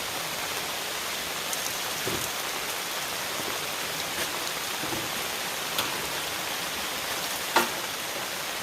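Heavy rain pouring down in a steady hiss, with a few sharp drip-like taps; one louder tap near the end.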